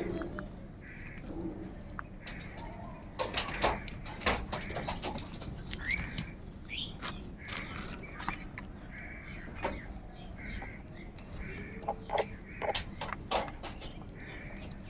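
Several crows cawing in short hoarse calls again and again, with many sharp clicks and taps mixed in among the calls.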